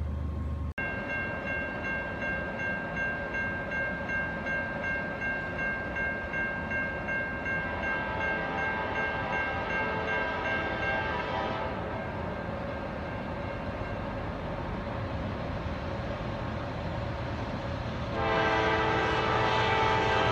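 CSX freight locomotive horn sounding over the rumble of an approaching train. A long horn blast fades about halfway through. A louder, fuller horn blast starts near the end as the train draws closer.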